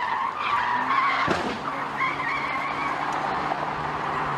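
Car tyres skidding on the road: a wavering squeal over steady vehicle noise.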